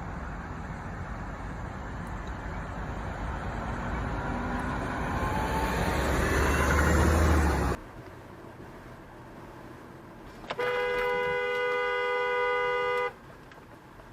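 Rushing vehicle and road noise that grows louder and then cuts off abruptly about eight seconds in. Near the end a car horn sounds one steady blast of about two and a half seconds.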